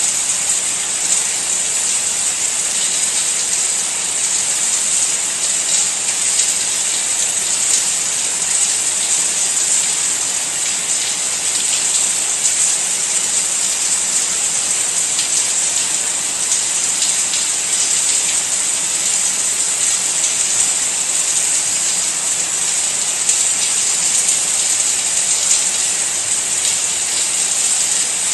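Steady rain falling, an even bright hiss of many drops with a fine patter, unchanging throughout.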